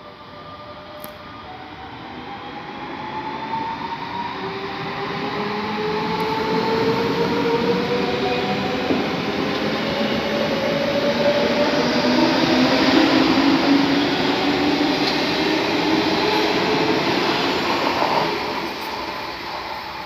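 Red S-Bahn electric multiple unit pulling away and passing close by. Its motors give a whine that rises in pitch as it speeds up, over rolling wheel-and-rail noise. The sound grows loud as the train comes alongside and drops away near the end as it recedes.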